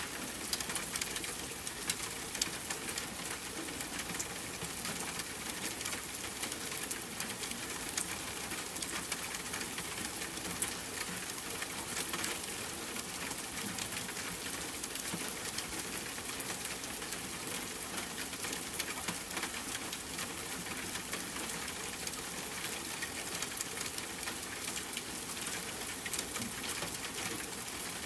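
Steady rain falling: an even hiss with many separate drops tapping sharply close by.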